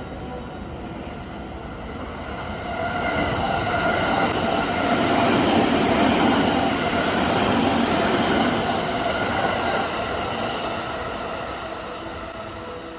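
JR West 285-series sleeper electric train running through a station without stopping. Its running noise builds for a few seconds, is loudest around the middle, then fades as it moves away, with steady tones above the rumble.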